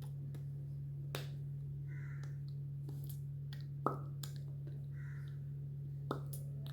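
A steady low hum with three short, sharp clicks scattered through it, the loudest about four seconds in.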